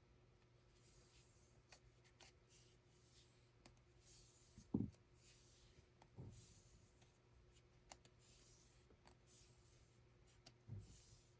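Faint rustling and scratching of hand weaving work with threads, with small clicks and three soft, low thumps spaced irregularly.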